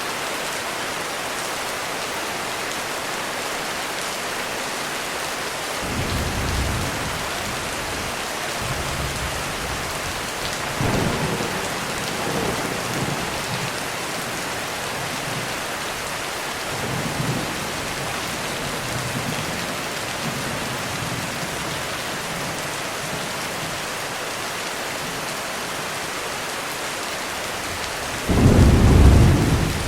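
Heavy rain falling steadily during a thunderstorm, with low rolls of thunder several times and a much louder thunderclap near the end.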